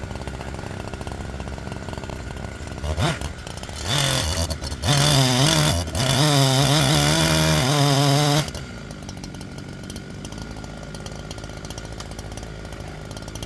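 Gas chainsaw idling, briefly revved at about three seconds, then run at high revs in pulses from about four to eight and a half seconds, its pitch wavering. It then drops back to a steady idle.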